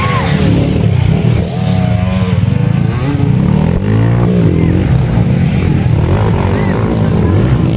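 Enduro dirt bike engines revving as the bikes race, their pitch rising and falling over a heavy low rumble.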